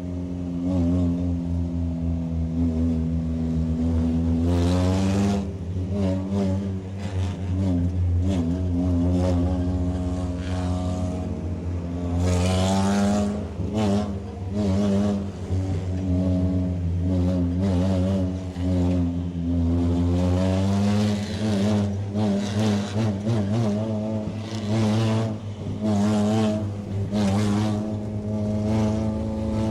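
Race car engine heard from inside the car, running hard with its pitch rising and falling, with short bursts of rushing noise over it.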